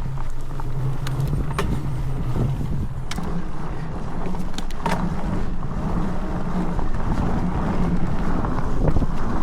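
Rolling ride on an electric fat bike over a dirt trail: steady low rumble of the fat tyres and wind on the microphone, with a few scattered clicks and rattles from the bike.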